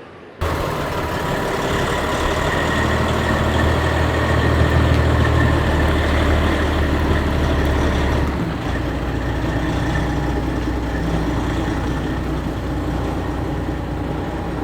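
Heavy diesel semi truck engine running steadily at low revs with a deep note, coming in abruptly about half a second in, swelling a little in the middle and easing slightly about eight seconds in.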